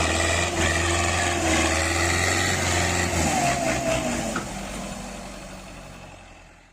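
Tractor diesel engines running steadily while pulling against each other in a tug-of-war. The deep engine note drops away about three seconds in, and the sound fades out over the last two seconds.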